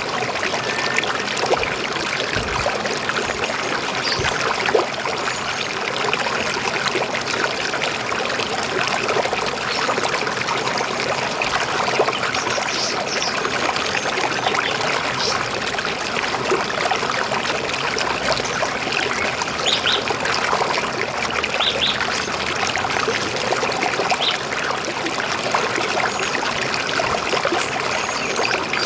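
River water flowing and trickling, a steady, even rush. A few short, faint bird chirps sound now and then in the second half.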